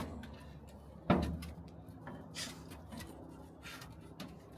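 A single sharp knock about a second in, followed by faint scattered clicks and light rustling.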